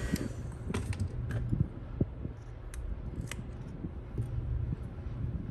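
Scattered small clicks and taps of hand repair tools working on a smartphone's internal parts.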